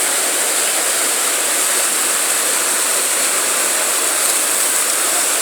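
Whitewater rapids on the Chattahoochee River: a steady, even rushing of fast water churning over rocks.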